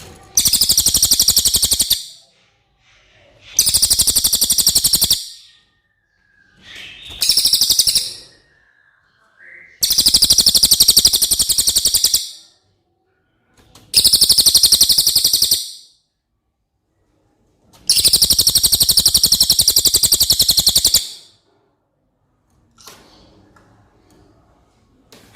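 Cililin bird singing: six fast, high-pitched rattling trills of one to three seconds each, with short pauses between them. A faint lower whistle sounds between the second and fourth trills.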